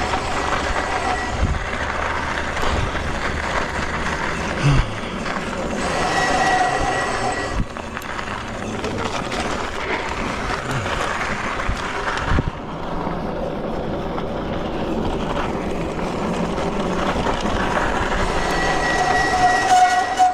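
Freego X2 electric dirt bike climbing a loose, rocky dirt hill: a steady high motor whine that comes and goes with the throttle, over the constant rumble and crunch of knobby tyres on loose gravel and rocks. A couple of sharp knocks, about 5 and 12 seconds in.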